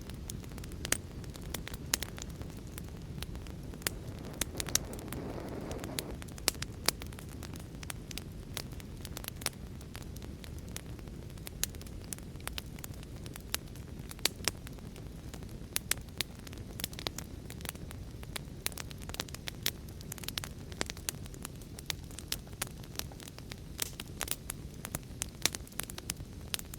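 Wood fire burning with a steady low rush of flame and frequent sharp, irregular crackles and pops.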